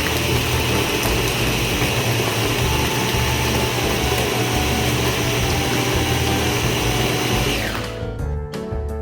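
Blender running steadily as it blends a smoothie with ice. About seven and a half seconds in, its whine falls in pitch and the motor winds down to a stop. Music takes over near the end.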